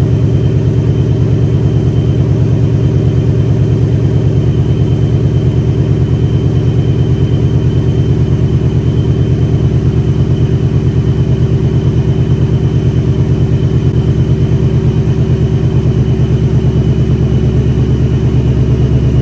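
Supercharged 2020 Ford Mustang GT's 5.0 V8 idling steadily just after a cold start, heard from inside the cabin with its added sound deadening.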